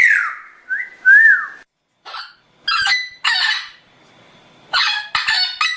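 Bird calls: a few clear whistled notes, each rising and falling in pitch, in the first second and a half, then harsh, raspy calls from about three seconds in, with a quick run of them near the end.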